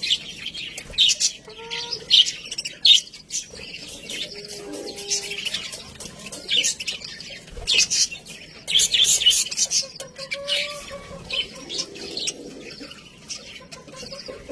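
Budgerigars chattering and chirping, many short high chirps crowding over one another.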